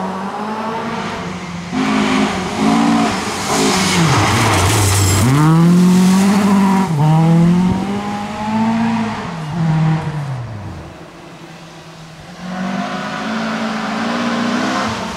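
Volvo 740 rally car's engine revving hard and shifting gears, its pitch dropping low as it slows about four seconds in and then climbing steeply as it accelerates again, with loud tyre noise over the middle. The sound fades out about ten seconds in, and an engine and tyre noise rise again near the end.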